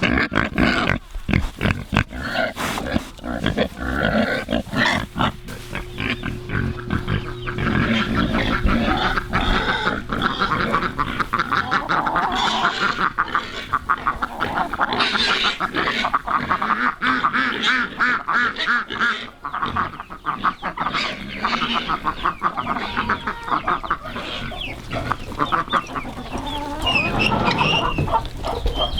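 Barnyard chorus of farm ducks quacking and calling over one another, mixed with pig grunts.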